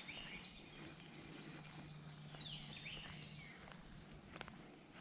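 Faint bird calls outdoors: several high whistled notes, each sliding down in pitch, repeated at intervals of about a second or two.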